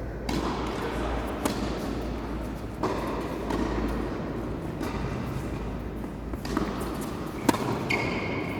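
Tennis ball being struck and bouncing on court: a few sharp pops a second or more apart, the loudest near the end.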